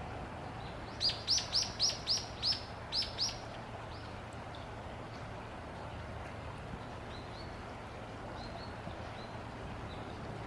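A bird calling: a quick run of about eight sharp, high chirps about a second in, followed by a few fainter chirps later, over a steady low background rumble.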